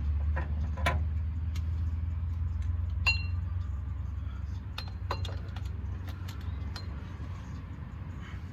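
Metal hand tools clinking and tapping in a few scattered sharp strikes, one ringing clink about three seconds in, over a steady low rumble.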